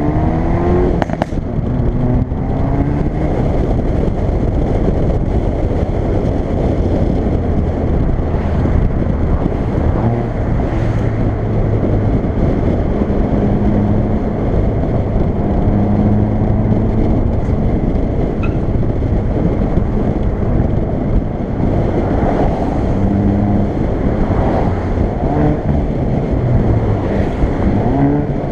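Hyundai i30 N's 2.0-litre turbocharged four-cylinder engine and exhaust under way, over heavy road noise. The engine note breaks off with a gear change about a second in, then rises and falls as the car is driven. A few short cracks come from the exhaust along the way.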